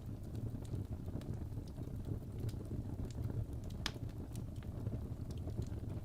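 Wood fire burning in a fireplace: a steady low rumble of flames with scattered crackles and pops from the logs, one sharper pop about four seconds in.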